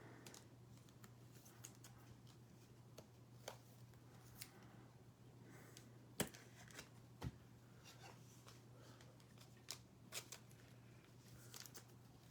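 Faint handling of football trading cards: scattered light clicks and slides as cards are flipped and sorted, the sharpest about six and seven seconds in. A low steady hum lies underneath.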